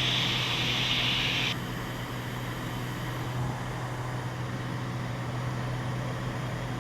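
Cessna 206 Stationair's six-cylinder engine and propeller droning steadily in the cockpit during an approach. A hiss sits over it for the first second and a half and cuts off suddenly.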